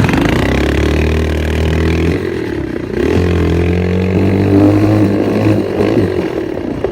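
Dirt bike engine running under way, its pitch rising and falling with the throttle. It eases off for about a second around two seconds in, then picks up again.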